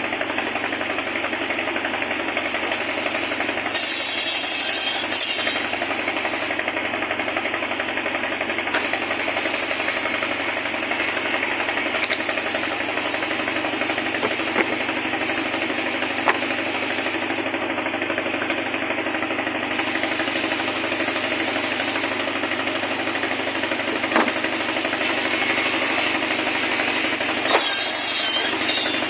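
Pallet-wood cutting machine running steadily, with two short louder stretches of high-pitched sound, one about four seconds in and one near the end.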